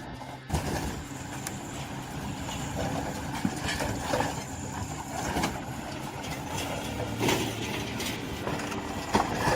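Heavy demolition machine tearing apart a car body: a steady engine drone with irregular metal crunches and clangs, the loudest near the end.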